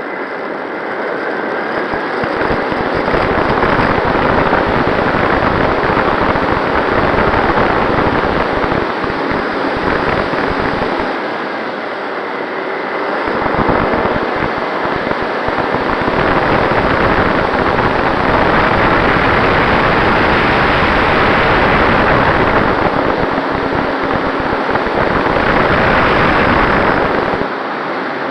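Radio-controlled MX2 model plane in flight: its motor running with air rushing past, picked up by an action camera, with uneven low wind buffeting on the microphone that comes and goes.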